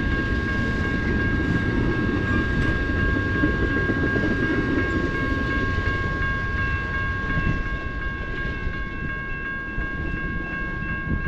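Amtrak California Zephyr passenger train departing, its cars rolling on the rails with a steady rumble that eases a little after the middle, under two steady high-pitched tones held throughout.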